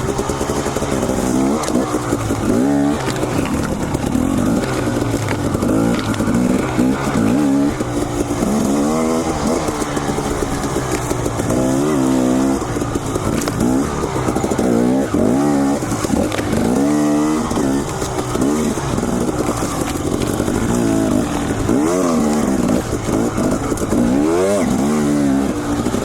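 Dirt bike engine revving up and down over and over, its pitch climbing and dropping every second or two with short throttle blips as it is ridden on trail.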